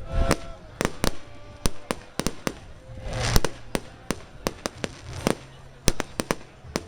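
Firecrackers going off all around: many sharp bangs at irregular intervals, with a louder hissing burst about three seconds in. Faint voices are heard now and then.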